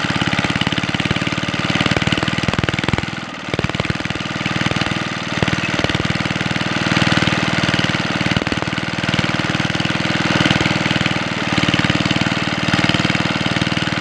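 Small engine driving a water pump, running steadily with a fast, even firing beat; it briefly drops in loudness about three seconds in, then carries on.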